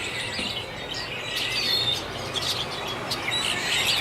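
A flock of birds calling and whistling all at once in a continuous chorus of overlapping chirps and upward-sweeping calls: courtship calling in the mating season.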